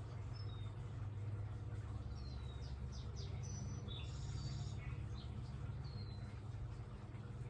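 Backyard songbirds chirping: scattered short high notes that slide downward, and a quick run of notes about three seconds in, over a steady low hum.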